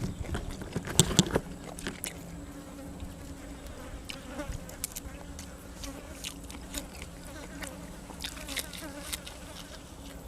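Close-up chewing and crunching of grilled cuttlefish and raw vegetables, with sharp crisp bites loudest about a second in and more through the middle and near the end. A steady low hum runs underneath.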